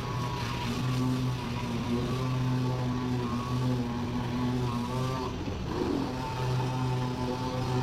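A small motor running steadily, a low hum with a higher whine above it, cutting in and out in short stretches.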